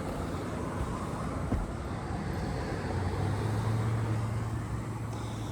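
Steady outdoor background noise with wind on the microphone, joined about halfway through by a low steady hum like a passing vehicle's engine.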